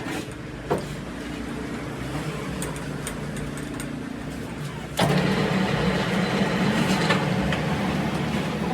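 A motor running steadily with a low hum and a few light clicks. About five seconds in it suddenly becomes louder and rougher.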